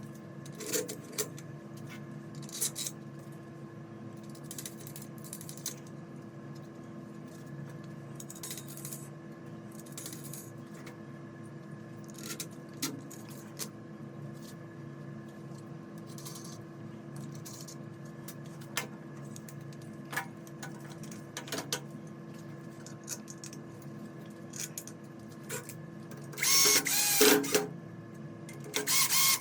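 Scattered light clicks and knocks, with a louder burst of clattering about 27 seconds in, over a steady hum.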